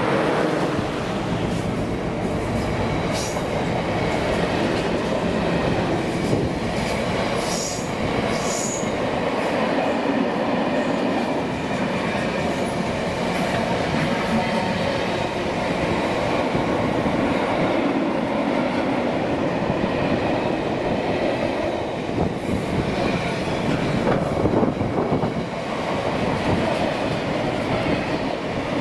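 Class 60 diesel locomotive passing, followed by a long rake of empty oil tank wagons rolling by with a steady rumble and wheels clicking over rail joints. A few brief high wheel squeals come a few seconds in.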